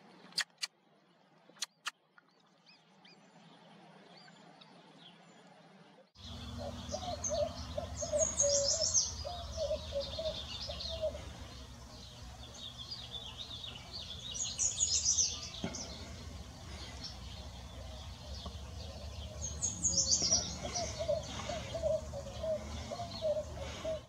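Western kingbird calling in bursts of high, sputtering chatter every few seconds, with lower rapid repeated notes and a steady low rumble beneath. The sound starts abruptly about six seconds in, after a quiet stretch broken by two sharp clicks.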